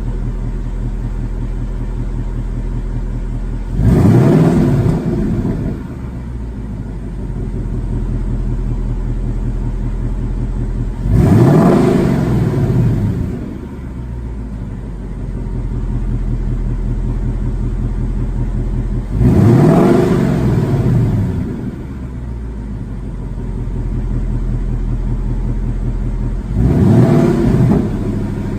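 2019 Ford Mustang GT's 5.0-litre V8 on its stock non-active exhaust, warmed up and idling steadily. It is revved four times, about every seven to eight seconds, each time rising quickly to around 3,000 rpm and falling back to idle.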